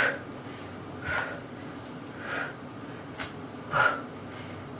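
A woman breathing hard from exertion: four short, sharp breaths roughly a second apart, with a faint click between the last two.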